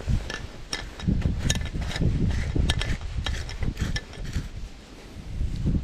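Irregular clicks and light knocks from the parts of a battery mini pole chainsaw being handled and taken apart, over a low rumble.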